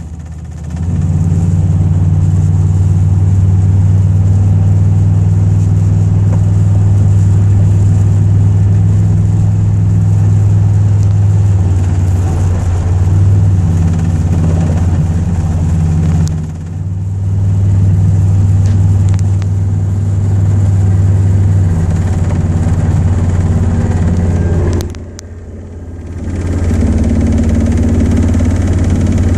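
1995 Chevrolet Silverado pickup with a manual transmission, driven in third gear at 50–60 mph, giving a loud, steady low drone: the mystery noise that the owner cannot trace, which comes on together with a rattle that she puts down to the alignment. The drone drops away briefly twice, about sixteen seconds in and again around twenty-five seconds.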